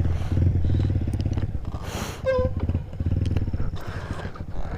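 Motorcycle engine running at low revs, a steady low pulsing hum that rises and falls slightly. A short pitched call, likely a voice, cuts in briefly about two seconds in.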